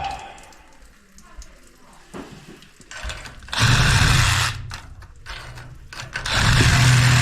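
Power saw cutting through a steel steam pipe, run in two bursts: about a second of cutting halfway through, then cutting again from about six seconds in.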